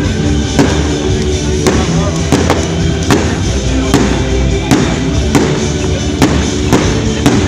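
Fireworks going off with sharp bangs about once or twice a second, over continuous music.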